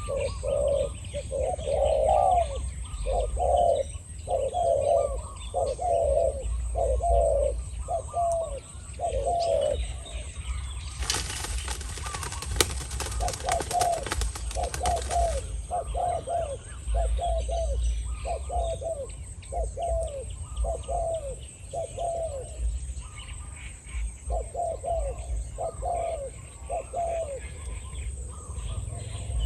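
Spotted doves cooing, a long run of short, low, rolling coo notes about two a second that stops briefly and starts again. A loud rushing hiss cuts in about a third of the way through and lasts about four seconds.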